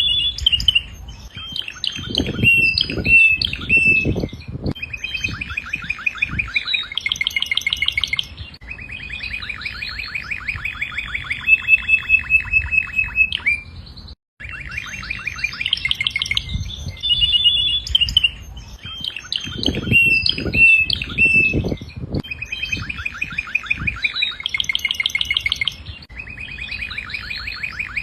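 Domestic canary singing: long, fast trills of rapidly repeated notes run one into the next, broken once by a very brief gap about halfway through.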